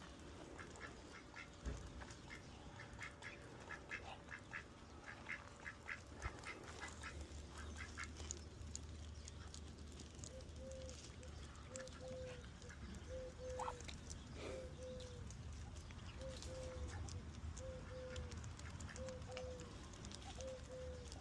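Ducks calling: a run of quick, short calls through the first eight seconds. From about ten seconds in, a soft two-note call repeats about once a second.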